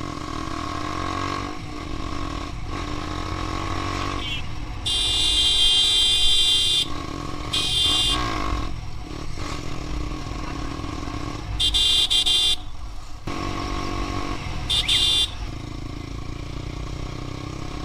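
TVS Apache RTR 160 4V's single-cylinder engine running steadily through an aftermarket exhaust. A vehicle horn sounds four times and is louder than the engine: a long blast about five seconds in, then shorter honks around eight, twelve and fifteen seconds.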